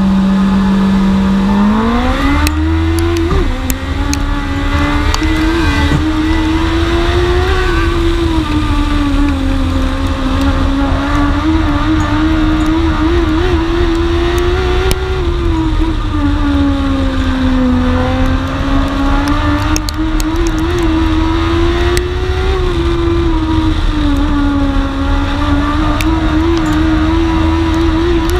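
Dwarf race car's engine, recorded on board during a race: it holds a steady pitch, accelerates about two seconds in, then rises and falls in pitch every few seconds as the driver goes on and off the throttle around the track.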